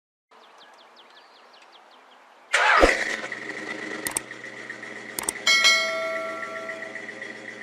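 A vehicle engine starting suddenly about two and a half seconds in and then running steadily, after a faint stretch with a few short chirps.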